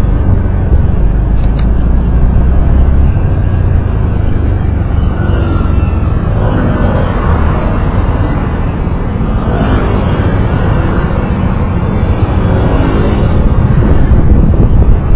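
Road vehicle noise while driving: a loud, steady low rumble, with engine notes rising and falling a few times in the middle.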